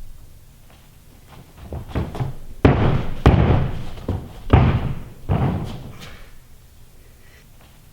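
A gymnast's tumbling pass: a few quick running steps, then four heavy thuds of hands and feet striking the gym floor in a row, the last landing about halfway through.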